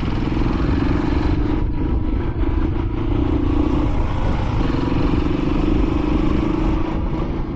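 Royal Enfield Classic 500's single-cylinder engine running steadily while riding, over a heavy low rumble of wind and road noise.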